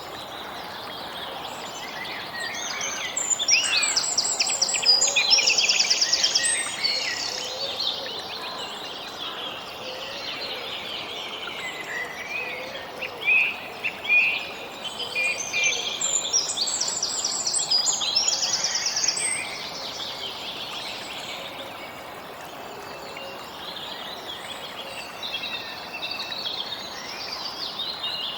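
Songbirds singing and chirping over a steady background hiss, with two louder passages of fast trilled song, about three seconds in and again about sixteen seconds in.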